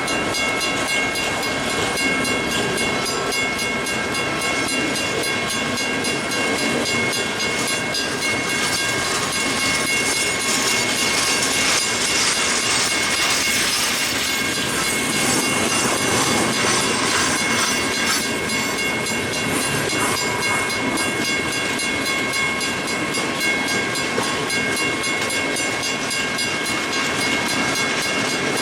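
Freight train cars rolling past on the rails, a steady rumble and clatter of wheels, with several steady high-pitched ringing tones held over it.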